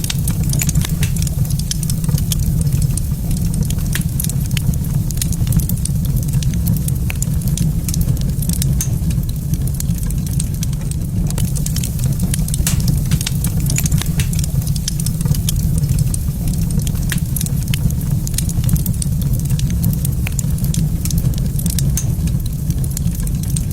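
Wood fire in a fireplace crackling, with frequent irregular pops and snaps over a steady low rumble.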